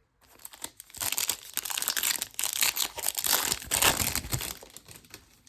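Plastic wrapper of a trading-card pack crinkling and tearing as it is ripped open and handled, in loud rapid crackles that die away near the end.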